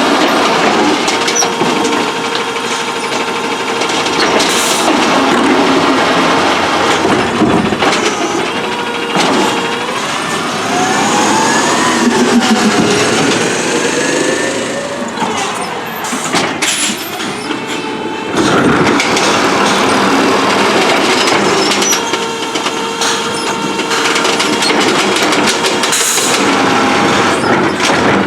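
Compressed-natural-gas Autocar ACX garbage truck with an Amrep automated side-loader arm at work: engine running with a whining hydraulic drive that rises and falls in pitch around the middle. Several sharp knocks and bangs come through over it.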